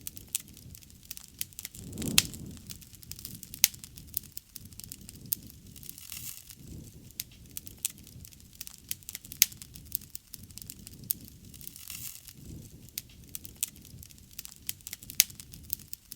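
Wood fire burning: a low flame rumble with a steady stream of crackles and sharp pops from the burning logs, a few pops much louder than the rest.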